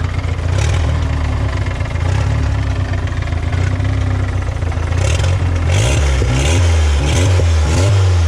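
Turbocharged VW Gol AP engine running, its speed rising and falling several times in the second half. It carries a mechanical noise that the owner traces to a failing water pump.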